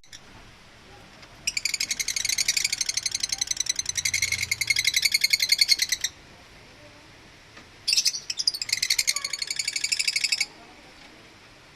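African lovebirds chattering: two long bouts of rapid, evenly repeated high chirps, the first lasting about four and a half seconds and the second about two and a half.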